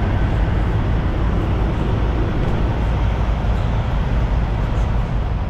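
Diesel semi-truck engine running steadily, a loud, even low rumble with a noisy wash of sound over it.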